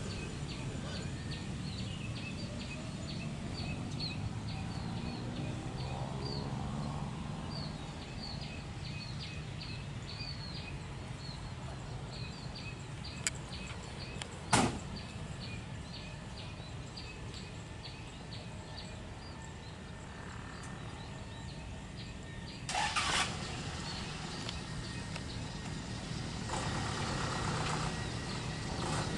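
Steady low engine rumble from distant traffic, with many short high chirps through the first half. A single sharp click about halfway through is the loudest sound, and a brief noisy burst follows later on.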